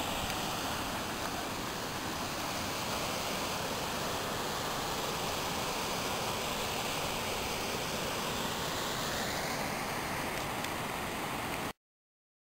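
Steady rush of flowing water from a river and waterfall. It cuts off suddenly near the end.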